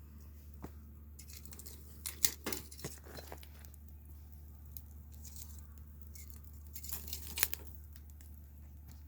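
Wood fire crackling, with irregular sharp pops and snaps that come in two clusters, over a steady low hum.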